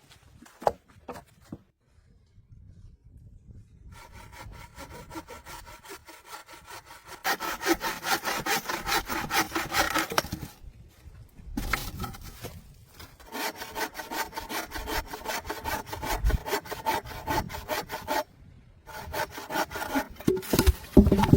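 A saw cutting wood in quick back-and-forth strokes, after a few knocks. The sawing comes in three runs with short pauses between them.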